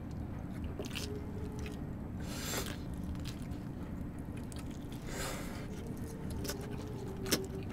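Faint chewing of cheese toast, with a couple of soft noisy mouthfuls, over a steady low hum; a sharp click near the end.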